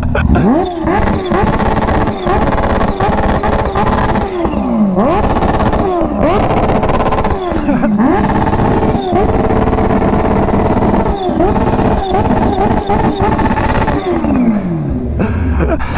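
A vehicle engine revved up and down over and over through a loud exhaust, the pitch climbing and dropping every second or two.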